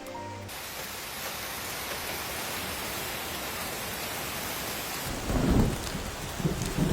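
Steady rain falling, with a loud low roll of thunder about five seconds in and a smaller rumble near the end.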